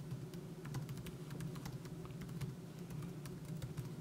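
Typing on a laptop keyboard: quick, irregular clicks of the low-profile keys, over a steady low hum.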